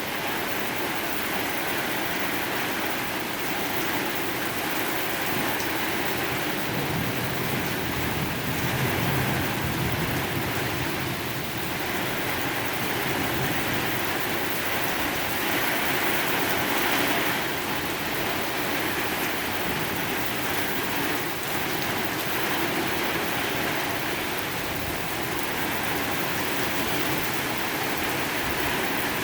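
Heavy thunderstorm rain pouring down steadily in a dense, even hiss. A low rumble of thunder swells about nine seconds in.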